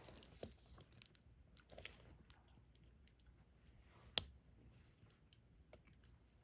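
Quiet, scattered small clicks and taps of a diamond painting pen picking up resin drills and pressing them onto the sticky canvas, with one sharper click about four seconds in.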